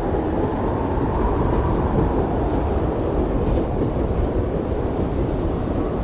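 Blizzard wind blowing steadily: a deep, constant rush with a faint whistle over it.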